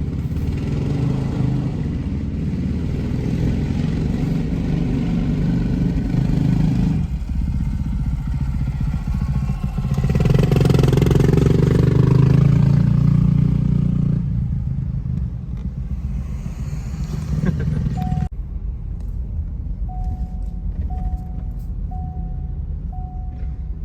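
Vehicle running, a steady low rumble of engine and road noise that grows louder around the middle. Near the end it cuts suddenly to a quieter hum with a short beep repeating about once a second.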